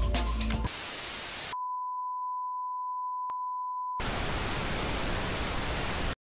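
Background music gives way to a burst of hiss like TV static, then a single steady high beep tone, like a broadcast test tone, held for about two and a half seconds with one click in it. The static hiss returns and cuts off abruptly into silence.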